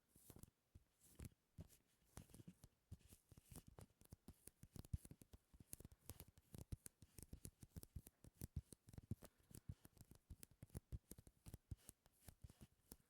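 Close-miked ASMR sticky sounds: a faint, rapid, irregular run of soft sticky clicks and crackles, several a second.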